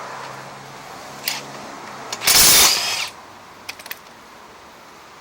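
Metal clicks and clanks of hand tools working on the underside of a lawn mower, likely around the blade, with one loud rattling burst about two seconds in.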